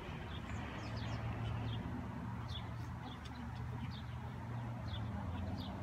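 Small birds chirping, a string of short high chirps that slide downward, over a steady low rumble.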